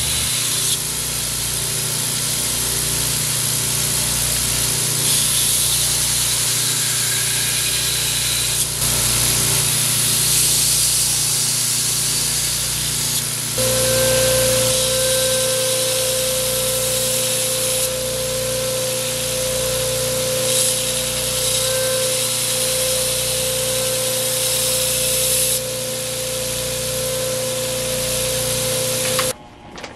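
Power grinder running steadily as it grinds the edge onto a spring-steel paring knife blade, a steady hum joining about halfway through; it cuts off suddenly near the end.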